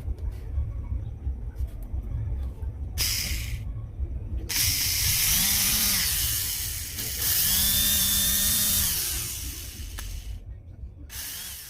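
Oster blender's motor, freshly rewound, switched on and run in bursts: a short blip, then two runs of a few seconds each with a high motor whine as it spins up, then another short blip.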